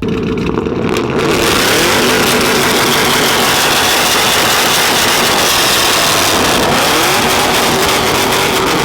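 Loud vehicle engine running, its pitch rising and falling a few times over a heavy, steady rushing noise.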